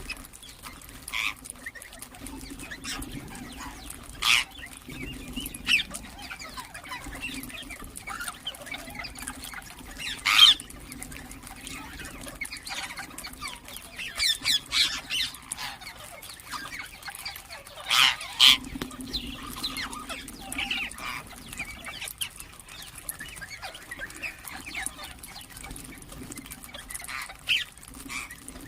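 Ringneck parrots giving short, sharp screeching calls every few seconds, with a burst of several calls in quick succession near the middle and softer chirps between. A low steady hum runs underneath.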